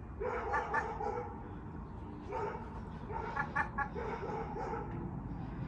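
Ragdoll cat chittering: runs of quick, stuttering chirps, one short run near the start and a longer one from about two to five seconds in. It is the excited call a cat makes at a bird it can see but cannot reach.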